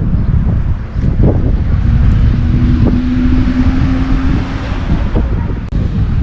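Wind buffeting the microphone in a loud, gusting rumble, with a steady hum for a couple of seconds in the middle.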